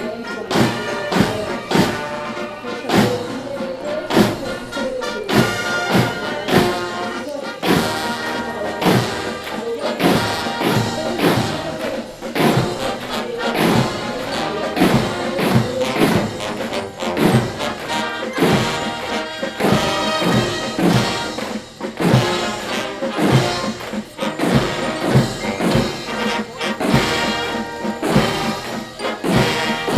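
March music with brass over a steady drum beat, about two beats a second.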